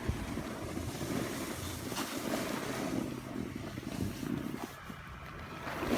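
Wind buffeting the microphone in a snowstorm: a steady rushing noise, heaviest in the low range.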